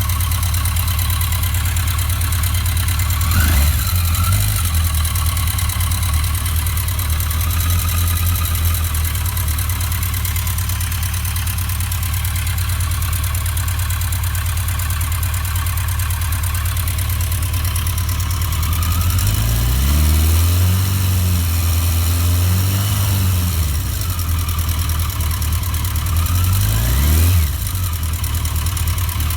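1982 Yamaha XJ650 Seca's air-cooled inline-four idling with a ticking noise that worries the owner. It is revved briefly a few times: once about three seconds in, a few quick blips around two-thirds of the way through, and once more near the end.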